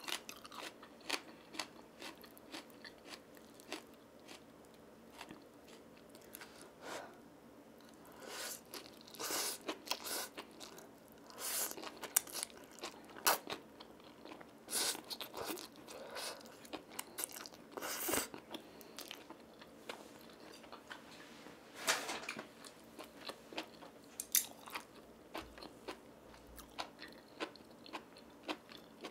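Close-miked mouth sounds of eating spicy stir-fried ramen noodles and seasoned bracken fern: chewing with wet smacks and clicks, broken by several short slurps of noodles.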